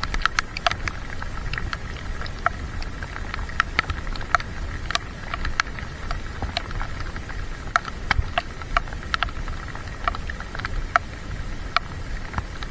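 Raindrops ticking irregularly on a waterproof camera case, a few taps a second, over a steady low rumble.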